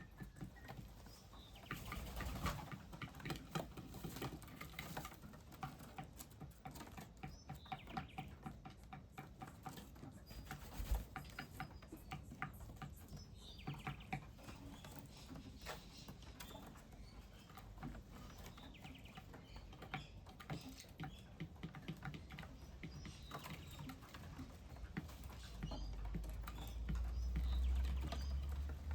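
Small birds feeding and bathing: a busy patter of pecks, scratches and splashes with faint chirps. A low rumble builds near the end.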